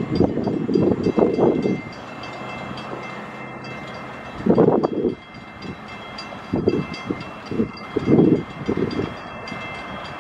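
A train passing close by, its wheels clattering in loud bursts every second or two over a steady running noise with a faint high hum.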